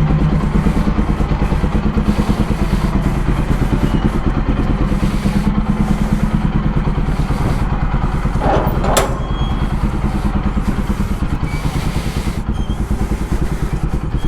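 Bajaj Pulsar NS200's single-cylinder engine idling steadily through an aftermarket Akrapovic full-system exhaust, freshly started, with even firing pulses. A short sharp clatter sounds a little past eight seconds in.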